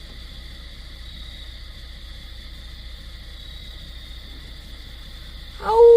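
Night insects chirring in a steady high drone over a low hum. Near the end a loud, long, slightly falling howl-like note suddenly begins.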